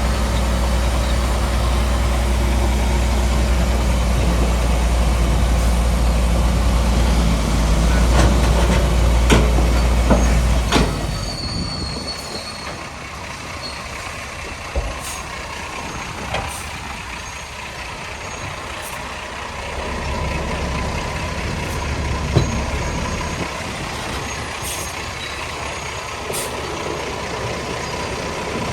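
Heavy diesel earthmoving machinery running with a deep engine rumble that drops off sharply about eleven seconds in, leaving a quieter engine with a few scattered metallic knocks.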